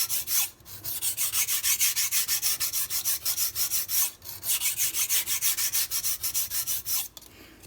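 Steel chef knife blade stroked rapidly back and forth on a wet whetstone, an even scraping rhythm of about five strokes a second, pausing briefly twice and stopping near the end.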